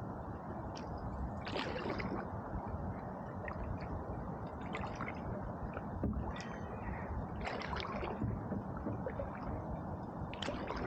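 Canoe paddle strokes dipping and splashing in river water, one about every two seconds, over a steady low rushing noise.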